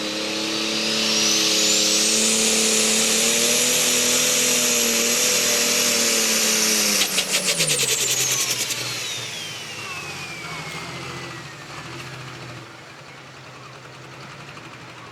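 John Deere super stock pulling tractor's turbocharged diesel running flat out under load, its turbo whine climbing to a high, steady scream within the first couple of seconds. About seven seconds in, the power comes off with a rapid fluttering chatter, the engine note drops and the turbo whine winds down over the next few seconds.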